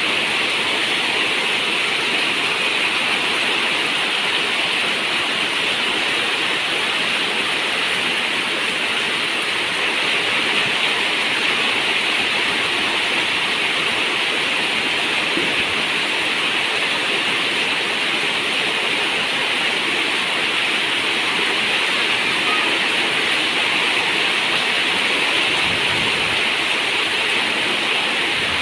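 Steady rain falling on a zinc roof, a dense, even hiss that doesn't let up.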